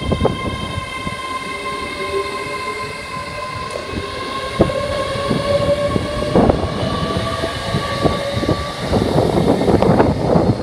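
LNER Azuma (Class 800) train passing close at speed: a steady whine from the running train with wheels clacking over the rail joints, the clatter busiest and loudest near the end.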